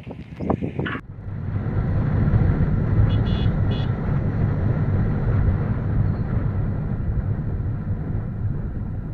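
Motorcycle on the move: wind rushing over the microphone along with engine and road noise. A vehicle horn toots a few short times about three seconds in.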